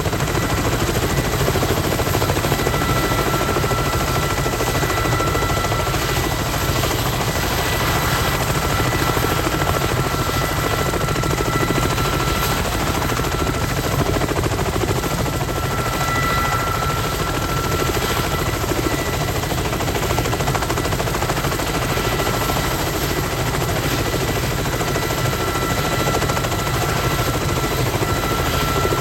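Kamov Ka-32 coaxial-rotor helicopter running with its rotors turning fast: a dense, rapid rotor chop under a steady high turbine whine, holding even throughout.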